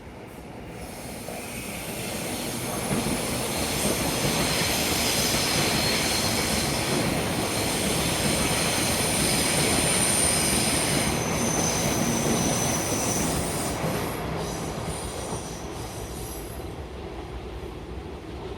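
Taiwan Railway EMU700 electric multiple unit passing, its wheels squealing in high whining tones over the rumble of the running gear; the sound swells over the first few seconds, holds loud through the middle and fades near the end.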